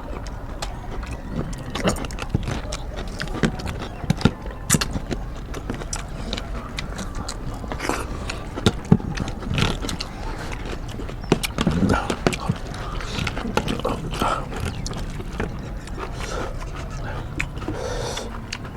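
People eating rice and curry: chewing and lip-smacking, with many short, scattered clicks and smacks.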